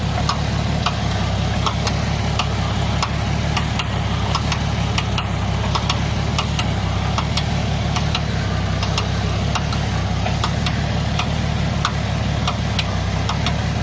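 A motor or engine running steadily with a low, even hum, with many sharp clicks and ticks over it.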